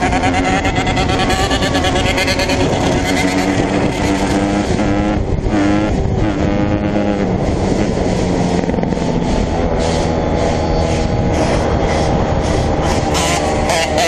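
Dirt bike engines running, their pitch rising and falling as the throttle is worked.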